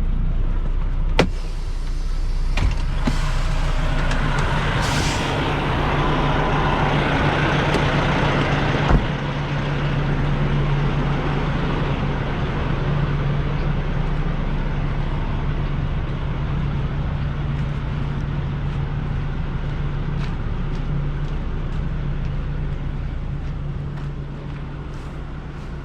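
Semi-truck diesel engine running steadily, with a few sharp knocks in the first nine seconds.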